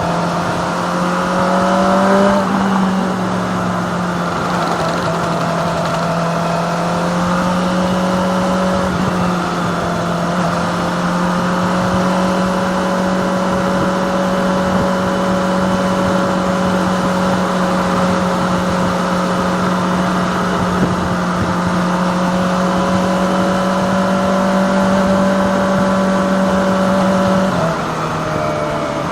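Kawasaki ZX-25R's 250cc inline-four engine running at a steady cruising speed, with wind and road noise. The engine note rises briefly about two seconds in and drops near the end.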